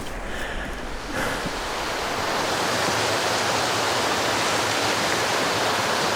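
Steady rushing outdoor noise that swells over the first couple of seconds and then holds even.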